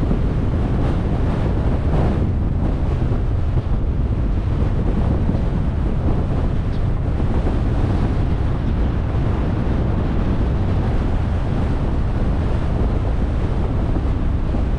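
Steady road and wind noise from a car driving along: a low rumble with a hiss over it, even throughout.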